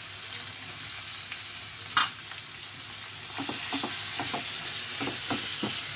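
Raw chicken strips sizzling in hot oil with onions in a nonstick wok, with one sharp knock about two seconds in. From about halfway the sizzling gets louder and a spatula stirs and scrapes the pieces in a quick run of strokes.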